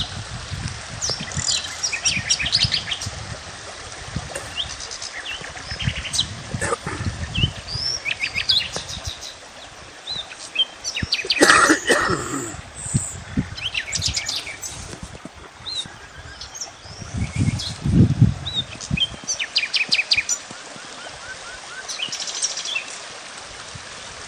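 Several wild birds chirping and trilling in short, overlapping calls. A few dull low bumps and one brief louder burst about halfway through come in between.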